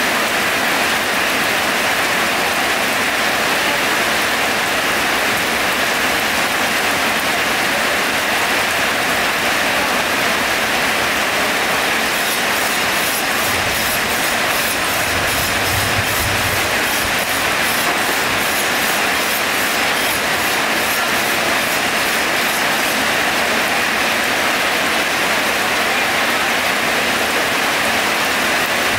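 Heavy rain falling, a loud, steady hiss, with a brief low rumble about halfway through.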